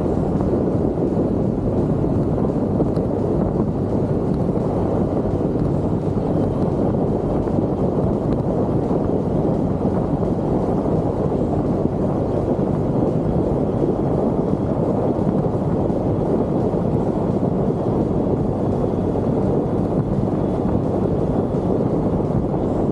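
Wind rushing over the microphone of a moving scooter, a steady, even rush with the Genuine Buddy 170i's small single-cylinder engine running beneath it.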